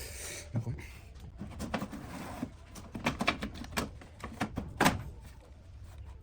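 Sharp clicks and knocks of hard parts being handled and set down, the loudest about five seconds in, with a stretch of scraping hiss in the first couple of seconds.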